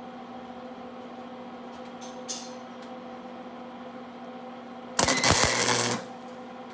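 Welding arc struck about five seconds in, crackling and buzzing loudly for about a second before it stops, over a steady electrical hum.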